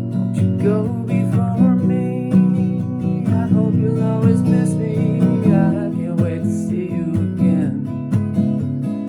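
Music: strummed acoustic guitar carrying an instrumental passage of a song, with a wavering melody line above the chords.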